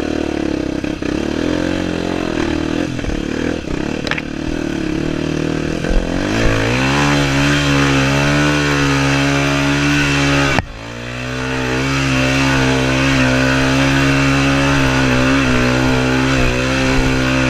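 Single-cylinder four-stroke trail motorcycle engine running under throttle off-road. Its note rises about six seconds in and then holds steady, drops out suddenly for a moment a little past halfway, and comes straight back to the same steady note.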